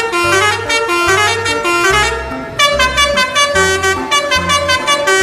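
A multi-tone 'telolet' bus horn playing a stepping melody over background music with a steady bass beat.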